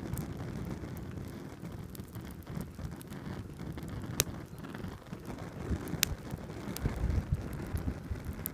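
Wind rumbling on the microphone, with a few sharp clicks about four and six seconds in.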